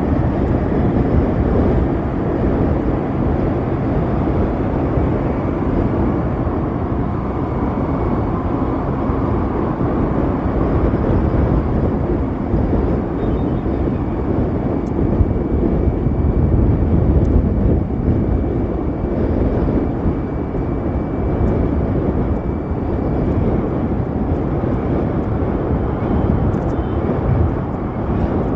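Riding on an Ather 450X electric scooter: a steady rush of wind and road noise, heaviest in the low end, with a faint thin steady whine coming in about halfway through.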